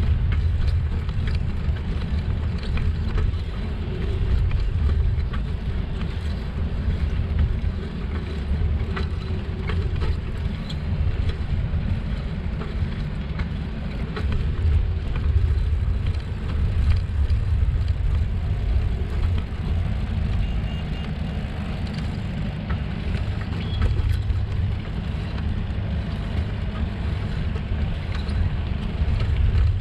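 Steady low rumble of wind on an action camera's microphone during a bicycle ride, with road noise and a few faint clicks.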